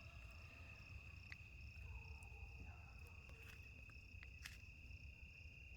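Faint night chorus of crickets or other insects: a steady, high, unbroken trill with a fainter regular pulsing above it, and a few short, faint sharp sounds.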